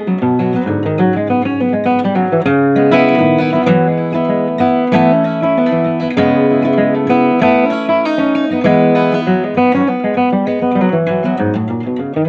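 Acoustic guitar playing an instrumental passage, a steady run of picked and strummed notes.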